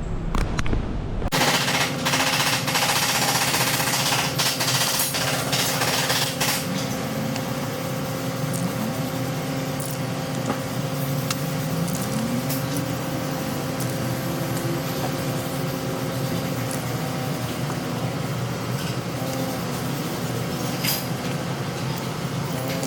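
Power tool starting up about a second in and running with a rapid rattling clatter, loudest for the first few seconds, over a steady mechanical hum.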